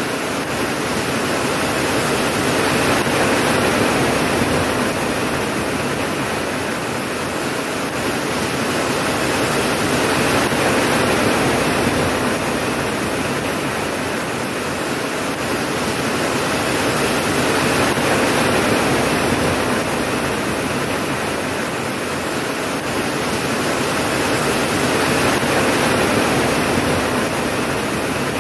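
Steady heavy rain, a dense hiss that swells and eases slowly about every seven seconds, with no thunderclap.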